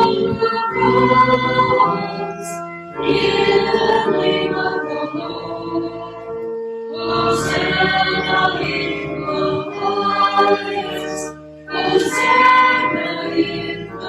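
Choir singing a slow sung response in phrases of held notes, with instrumental accompaniment. It is the congregation's sung response within the Eucharistic prayer, between the spoken preface and the rest of the prayer.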